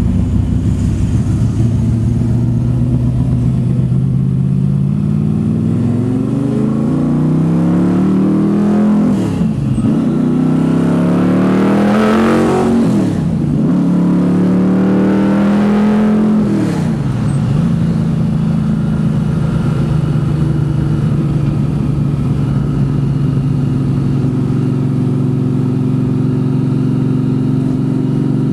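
Camaro's 427 cubic inch small-block Chevy V8 running steadily, then pulled hard through the gears of its 4-speed manual: the engine note climbs three times, each climb cut off by a quick drop in pitch at a gearshift. After the last shift it settles into a steady cruise.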